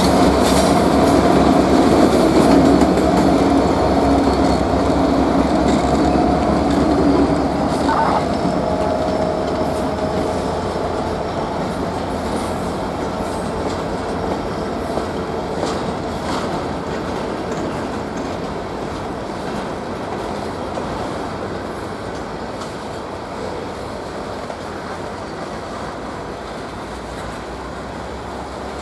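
A train rolling by on the rails: a steady rumble of wheels on track, with a few steady tones in the first eight seconds, that slowly fades as the train moves away.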